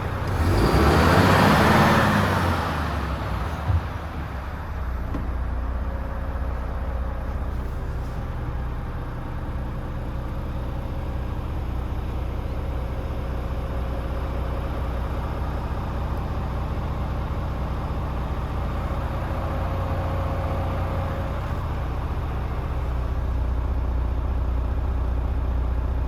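A Renault T460's 11-litre turbo diesel idling steadily. It opens with a loud rushing hiss lasting about two seconds, and there is a single click a little later.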